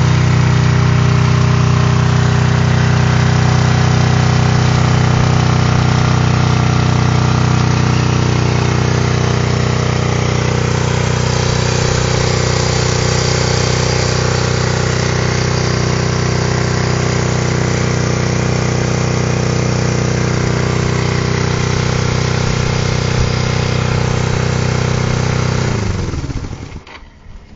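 1971 Honda CB350's air-cooled parallel-twin engine idling steadily. Near the end it is switched off, and it runs down and stops within about a second.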